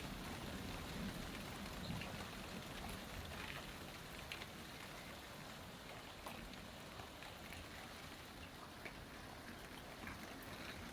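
Steady rain falling, with scattered drip ticks, as the low rumble of a thunderclap dies away over the first couple of seconds.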